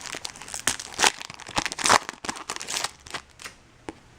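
Foil trading-card pack wrapper crinkling and rustling as it is handled, with quick crackly bursts, loudest about one and two seconds in, that die down in the last second.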